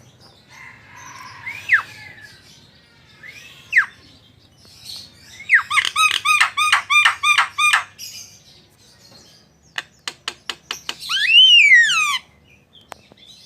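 A starling (jalak) singing a varied song: a couple of sharp downslurred whistles, then a fast run of repeated chirping notes, about five a second, in the middle. Near the end come a quick series of clicks and a loud whistle that rises and falls in an arch.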